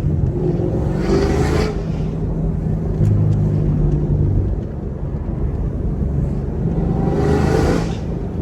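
Chevrolet Camaro SS 1LE's naturally aspirated V8 running steadily while cruising, a low drone, with two brief louder swells, about a second in and near the end.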